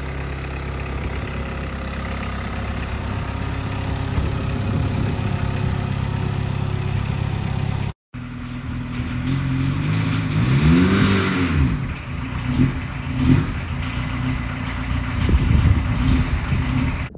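Volkswagen Rabbit pickup's four-cylinder engine idling steadily. About halfway through it is heard from behind at the exhaust, revved up and back down once, then given several short throttle blips.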